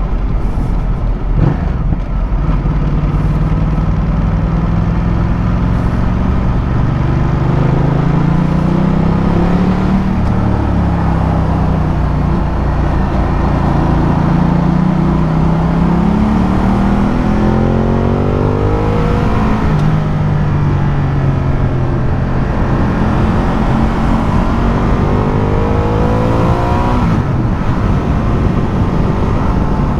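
Ducati Multistrada motorcycle engine under way, its pitch rising and falling again and again as the rider accelerates and rolls off through a run of corners.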